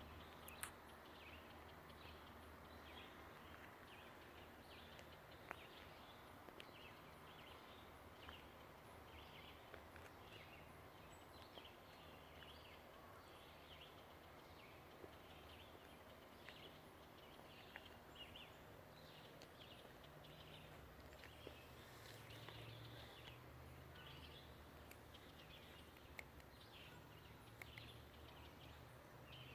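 Faint outdoor ambience of birds chirping over and over, with a low steady hum beneath and a few faint clicks.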